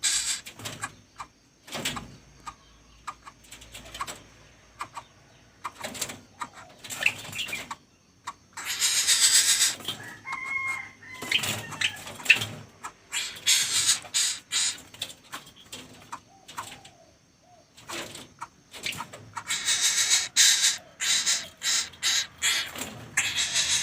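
Young coucals ('but-but' birds) giving harsh, hissing rasps in repeated bursts, with sharp clicks between them.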